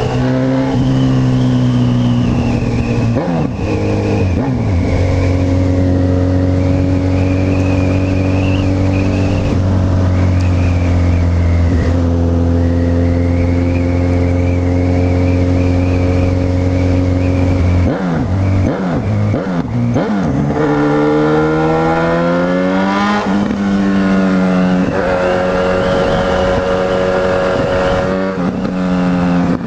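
Honda CB1000R's inline-four engine running on the move, holding steady revs for long stretches with a few brief drops in pitch as gears change. About two-thirds of the way through it revs up and back down, then settles again.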